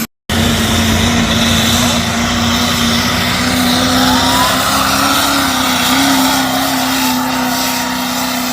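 Diesel pickup truck engine running hard at high revs under load, a steady note that climbs slightly in pitch, with a higher whine over it.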